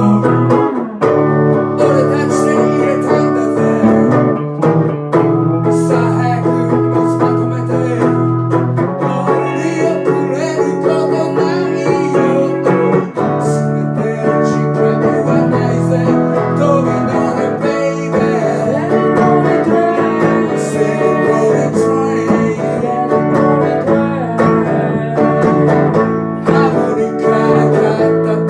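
Acoustic guitar music, plucked and strummed, in a country-blues style.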